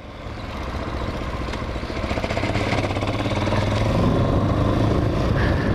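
Hawk 250 motorcycle's single-cylinder engine running while under way, growing steadily louder over the first few seconds.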